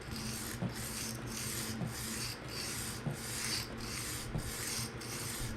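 PM60 steel knife blade stroked back and forth over a 220 grit diamond sharpening stone, a steady rasping scrape repeating about every half second. The bevel is being thinned to raise a burr.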